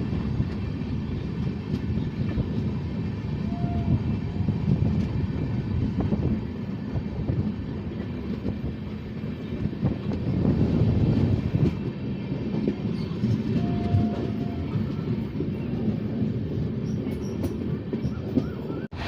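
Indian Railways passenger train rolling on the rails: a steady rumble with wheels clattering over the rail joints.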